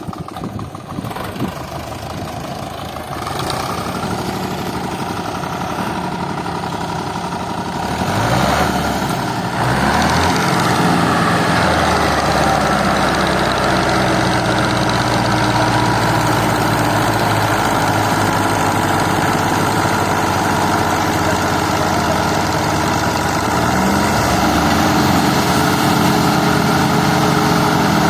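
Diesel tractor engine running, then revving up about eight seconds in and holding high revs, with another rise near the end, as it strains to pull a trolley of potatoes that is stuck.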